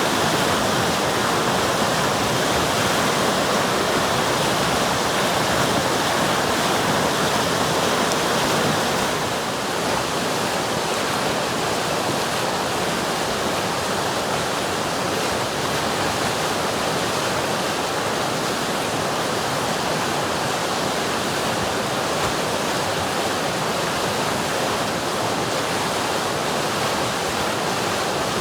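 River water rushing steadily over rocks, a dense even splashing, dropping slightly in level about nine seconds in.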